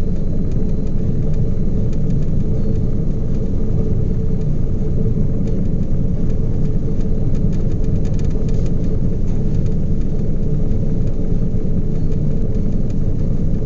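Steady low rumble of a ship underway, its engines and machinery droning with a constant hum.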